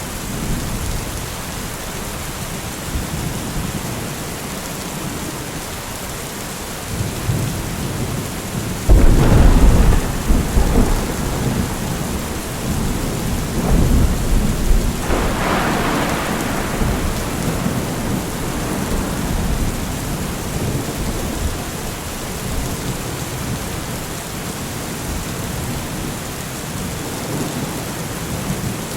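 Steady rain falling through a thunderstorm. A loud thunderclap breaks about nine seconds in and rolls on as rumbling, with a second roll of thunder swelling a few seconds later.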